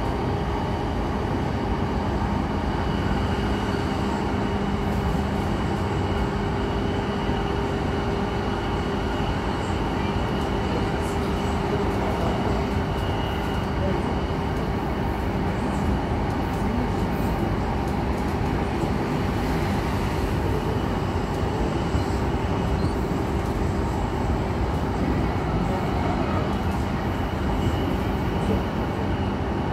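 Interior running sound of a JR East E233 series electric train at speed: steady wheel-on-rail noise with a steady low hum beneath it.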